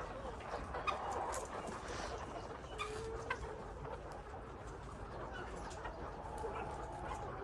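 Many chickens clucking and calling together, a continuous jumble of short calls with scattered sharp clicks.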